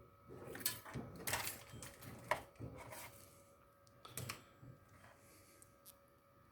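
Faint, scattered light clicks and knocks, a handful in the first few seconds, thinning out toward the end.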